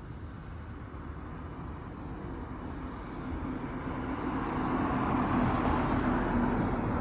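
A vehicle approaching on the road: a rush of tyre and road noise that swells from about halfway through and is loudest near the end.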